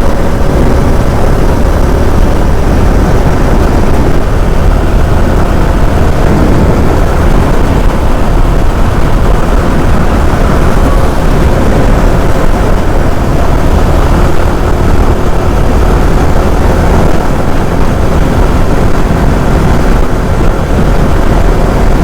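Motorcycle cruising at a steady speed, its engine running evenly under a constant rush of wind on the helmet microphone.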